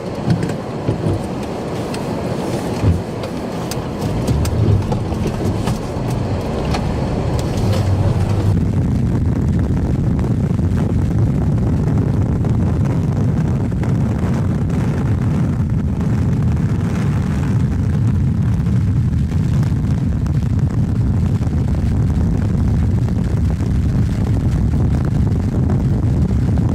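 Car driving off, heard from inside: a steady low road and engine rumble that gets louder about eight seconds in and then holds, with scattered clicks and knocks over the first several seconds.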